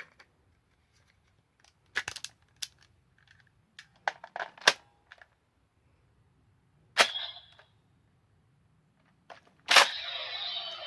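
Sharp plastic clicks and snaps from handling a Suiseiken Nagare toy sword and its Wonder Ride Book, in small groups about two, four and seven seconds in. Near the end a louder snap is followed by the toy's steady electronic sound.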